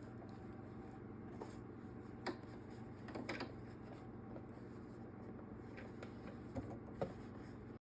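Quiet handling sounds of hand sewing on a cloth doll: brief fabric rustles and a few small clicks and taps, over a low steady room hum.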